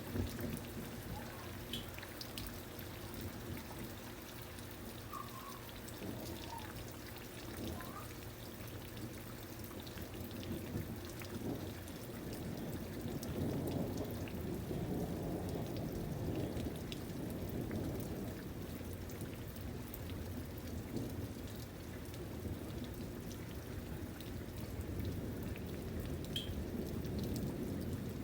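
Steady rain with scattered drops, and a low rumble of distant thunder swelling in the middle and again near the end.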